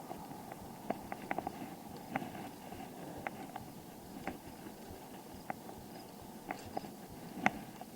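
Bicycle riding along: a steady rush of rolling and air noise with irregular sharp clicks and crunches, one louder click near the end.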